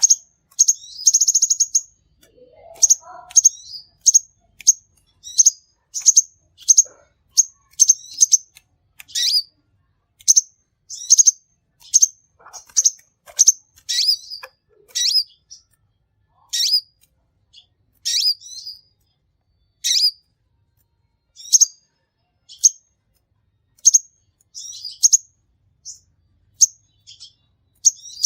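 Sunbird ('kolibri') calling in a long series of short, high, sharp chirps, about one or two a second, with a quick rattling trill about a second in.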